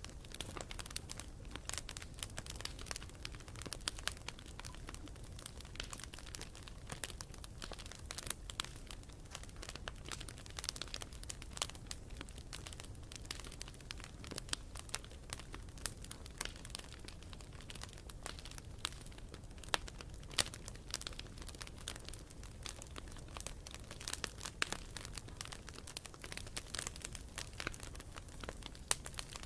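Wood campfire burning, crackling and popping irregularly over a low steady rumble of flames.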